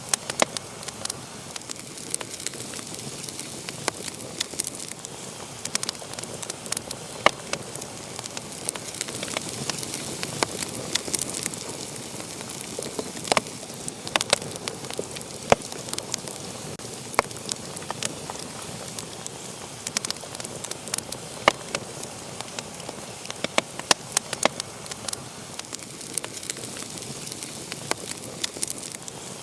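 Wood fire burning in a fireplace, with sharp irregular crackles and pops over a steady hiss of flame.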